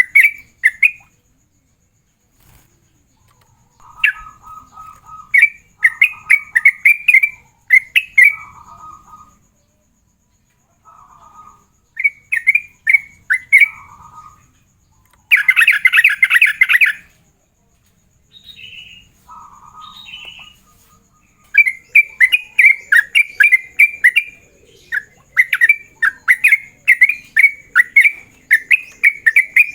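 Sooty-headed bulbul (trucukan) singing its rapid 'ropel' song: bursts of short chirping notes repeated in quick runs, with lower, shorter phrases in between. A dense burst comes about halfway through, and a long, unbroken fast run fills the last third.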